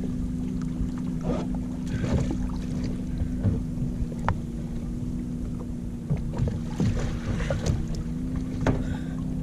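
Water splashing and sloshing around a fishing kayak, with scattered knocks on the plastic hull as a swimmer climbs back aboard after flipping it. A steady low hum runs underneath.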